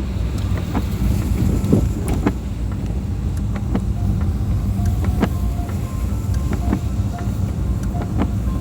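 Car driving on a wet road: a steady low rumble of road and engine noise, with scattered sharp ticks.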